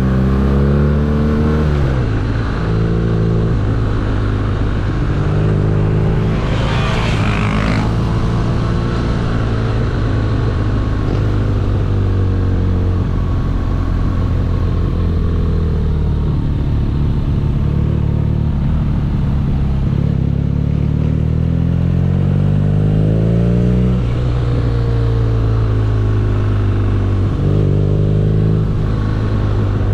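BMW R nineT's boxer-twin engine under way while riding, revs climbing and then dropping sharply at each gear change, several times over. The longest climb runs for several seconds before a shift near the end. A brief rush of noise comes about seven seconds in.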